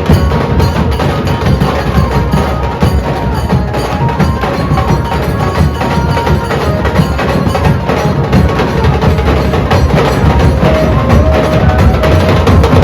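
Dhol drumming ensemble playing loud, fast and dense, with rapid crisp stick strokes over a heavy drum beat.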